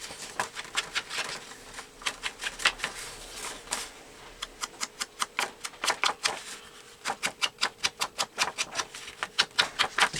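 Quick runs of light taps and clicks from hand crafting work on paper at a table, about five a second, easing off briefly around the middle.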